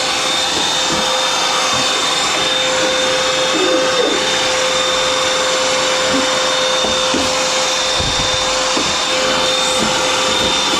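A vacuum cleaner running steadily with a constant whine, sucking lint and dust out of the inside of a tumble dryer. A few short knocks and rattles come through about seven and eight seconds in.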